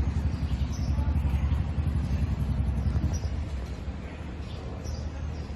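Yamataha gas air-heat burner firing: a steady low rumble of combustion with a rapid flutter, easing a little after about three seconds.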